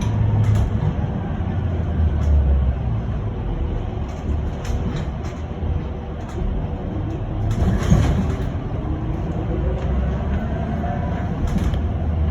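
Ride noise inside a moving electric bus: low rumble of the tyres and road with cabin rattles and a faint steady hum, and a knock about eight seconds in.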